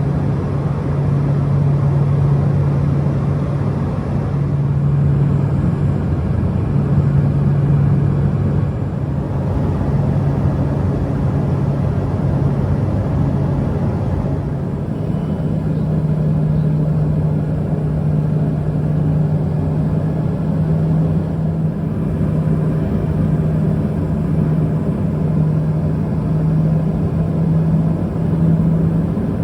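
Twin-engine turboprop airliner's engines and propellers droning steadily, heard from inside the passenger cabin in flight; the low hum holds its pitch and rises slightly near the end.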